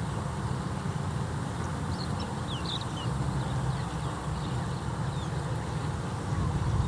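Steady low rumble with a few faint, short high bird chirps about two to three seconds in.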